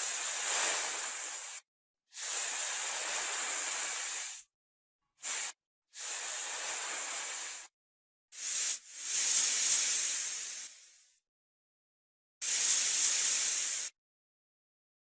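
Snake hissing: a series of about seven separate breathy hisses, most lasting one to two seconds and two of them short puffs, with silent gaps between.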